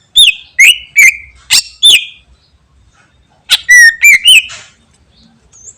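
A cucak ijo (green leafbird) singing loud, sharp whistled notes that sweep down in pitch: a quick run of five, then a pause, then a tighter group of four.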